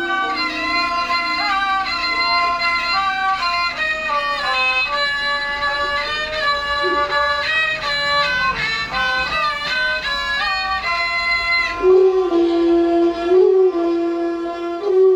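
A bowed fiddle plays the melody of a Thai classical overture, moving note to note in a high register and then dropping to a lower register about twelve seconds in.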